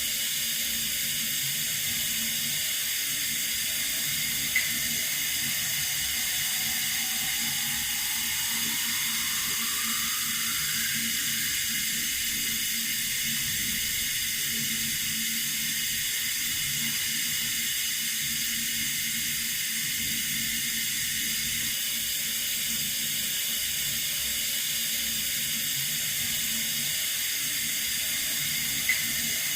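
Water running steadily from a tap: an even hiss, with two brief clicks, one about four and a half seconds in and one near the end.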